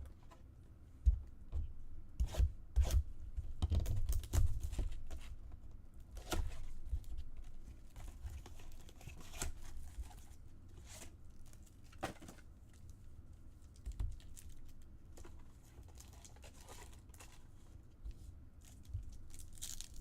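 Wrapping and card-pack wrappers being torn open and crinkled on a box of baseball cards, with sharp handling clicks and knocks. The tearing and rustling are busiest and loudest in the first few seconds, then come in scattered bursts.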